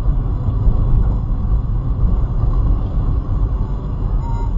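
Steady low rumble of a car in motion: engine and road noise.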